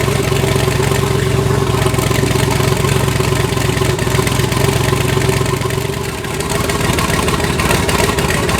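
Twin-turbo LS V8 of a Pontiac G8 running steadily at idle; about six seconds in its deep low rumble drops away and the tone changes.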